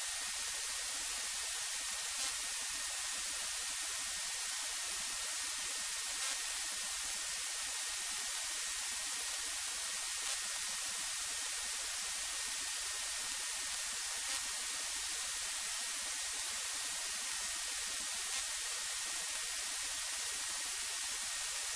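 Steady electronic hiss of an aircraft intercom and radio audio feed between transmissions, with a thin steady high tone and a faint tick about every four seconds.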